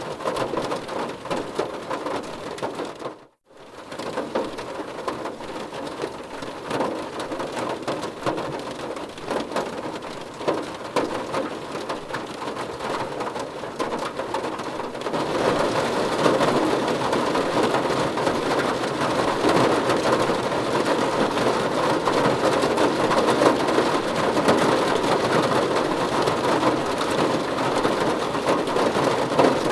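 Steady heavy rain, a dense hiss full of individual drop ticks. It cuts out briefly about three seconds in, then comes back and grows louder and heavier from about halfway through.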